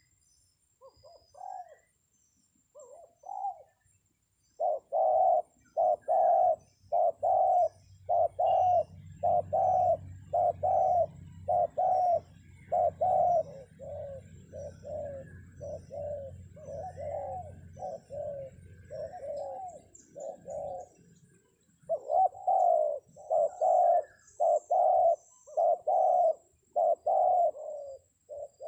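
Spotted dove coos repeated in a fast, even run of roughly one and a half notes a second, with a short break about three-quarters of the way through: the lure call used to draw wild doves down to a trap. Faint high chirps of small birds sound above it.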